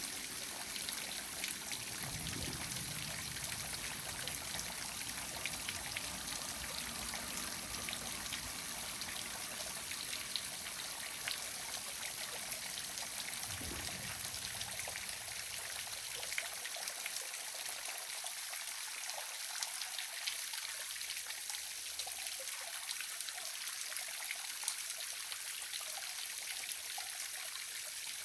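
Small waterfall: water falling and splashing steadily, an even rushing hiss.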